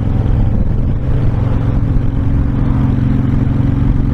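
Honda VTX1300 cruiser's V-twin engine running steadily at road speed, with wind rush over the microphone.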